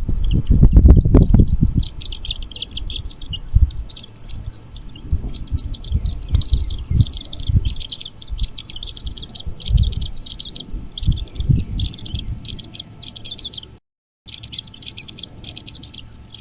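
Bald eagle chittering: rapid runs of short, high chirps, repeated in bursts again and again. Low rumbling thumps run underneath and are loudest in the first two seconds.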